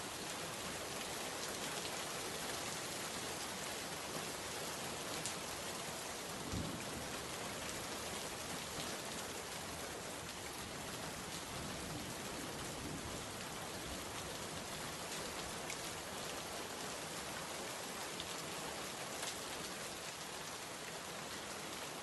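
Steady rain falling, an even hiss with scattered drop ticks, and a single low thud about six and a half seconds in.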